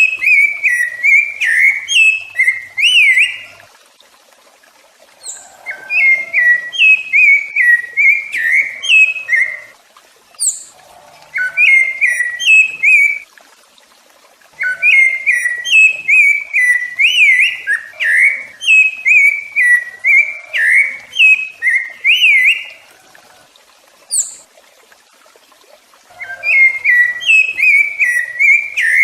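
Rufous-bellied thrush (sabiá-laranjeira) singing: loud phrases of quick, varied whistled notes, sung in bouts of a few seconds with short pauses between them, and a few brief high notes in the gaps.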